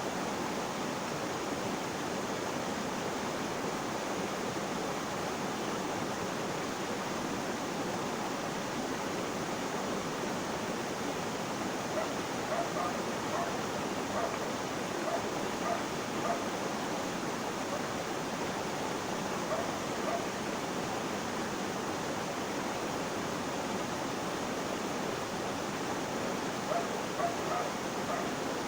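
Flowing water rushing steadily, like a stream or small waterfall. Short faint calls from an animal cut through it in a few clusters: several in the middle, a couple a little later and more near the end.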